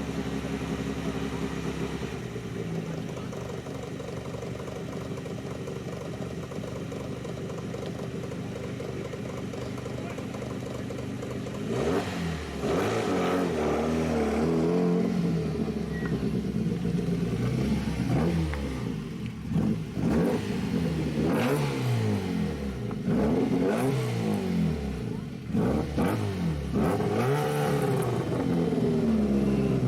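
Racing car engine running at a steady pitch, then from about twelve seconds in revving hard, with the pitch repeatedly climbing and dropping as it accelerates and shifts through the gears.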